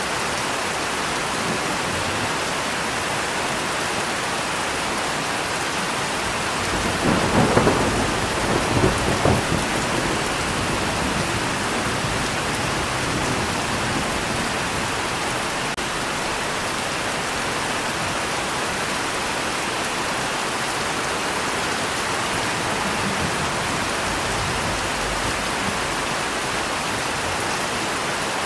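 Steady rain falling, with a roll of thunder rumbling up about seven seconds in and fading out by about ten seconds.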